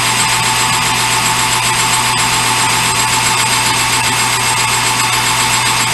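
Metal lathe running steadily while turning a cut on round stock, with a steady tone over a dense cutting noise.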